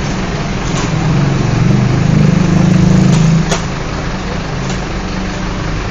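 An engine running steadily with a low hum, growing louder about a second in and dropping back after about three and a half seconds, with a sharp click as it drops.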